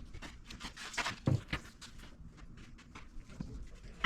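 Clicks and knocks of metal engine parts being handled, with a heavier thud about a second in and a sharp knock near the end.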